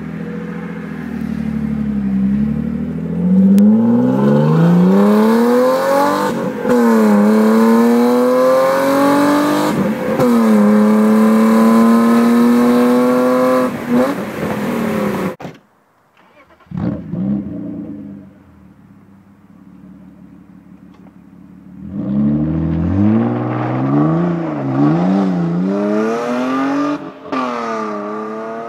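BMW E36 325is's 2.5-litre straight-six running with no exhaust fitted, accelerating hard through the gears: the pitch climbs and drops back at each upshift. About halfway it cuts off suddenly to a quieter, lower running stretch, then pulls again with two quick upshifts near the end.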